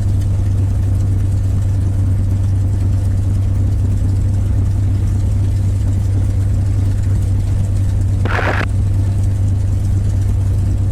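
North American P-51 Mustang's Merlin V-12 engine running steadily at idle, a loud, even drone. About eight seconds in there is a brief burst of sound lasting under half a second.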